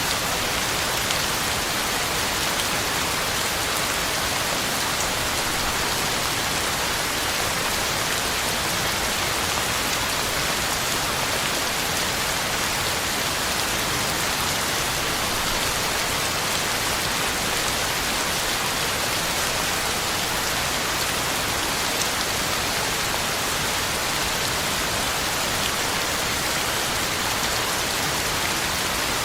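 Heavy rain falling steadily on the ground and leaves, a constant even hiss with faint scattered drop ticks.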